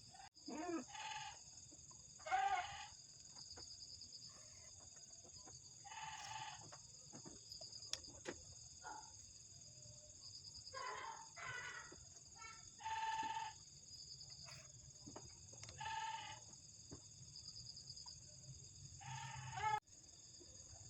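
Steady high chirring of insects, with short farm-animal calls breaking in about eight times, each under a second.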